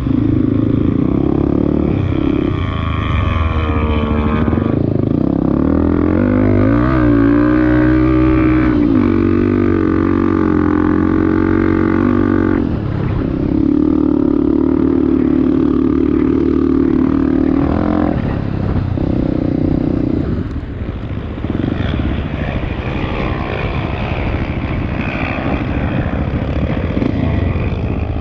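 Off-road vehicle engine running hard through sand, its revs rising and falling with steadier held stretches between, and a short easing off about two-thirds of the way in.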